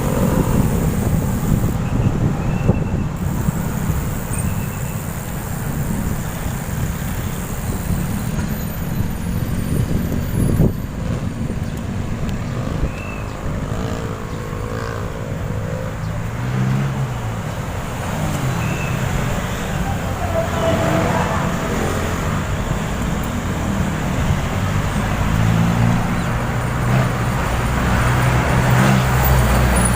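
Road traffic heard from a bicycle on a downhill run: steady rumble of rushing air and tyres, with motor vehicles passing. A vehicle engine grows louder over the last few seconds.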